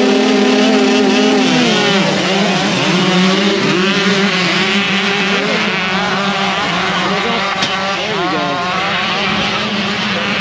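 Several motocross dirt bikes racing, their engines revving up and down as they shift and work the track. One engine holds a steady pitch for the first couple of seconds, then many engine notes overlap, each rising and falling.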